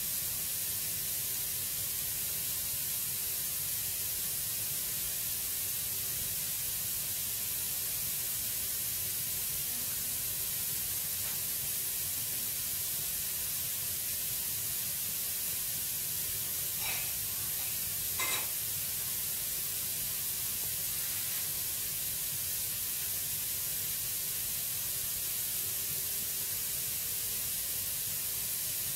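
Wood fire burning in an open fireplace: a steady hiss with two sharp crackles a little over a second apart, about two-thirds of the way in.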